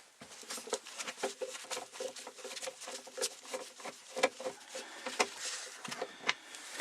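Quick, irregular clicks, taps and rattles of hand tools on plastic interior trim and its screws as the trim is unscrewed and worked loose.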